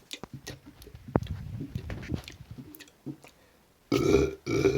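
A man burping loudly twice in quick succession near the end, after a stretch of faint scattered clicks and knocks.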